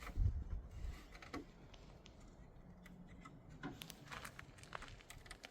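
Hands handling parts: a soft low thump just after the start, then scattered light clicks and taps.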